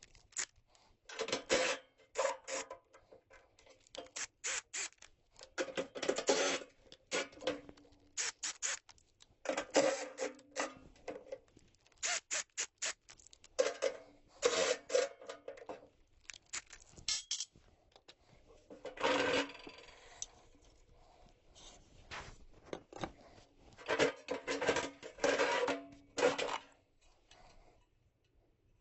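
Metal parts of a gas furnace's blower assembly clanking, rattling and scraping as they are handled and worked loose, in irregular bursts with short ringing tones and brief pauses between them.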